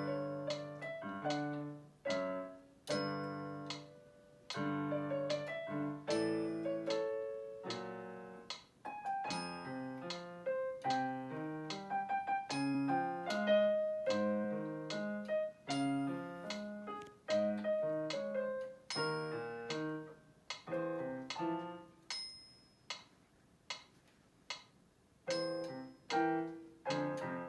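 Solo piano playing a slow ballad, a melody over struck chords that ring and fade. About three quarters through, the playing thins to a few quiet, spaced notes, then fuller chords come back near the end.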